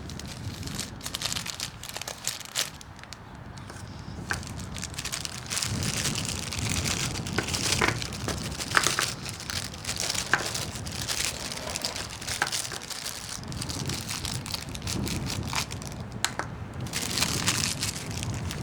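Sawdust smoke ball burning with irregular crackling and crunching, while wind rumbles on the microphone.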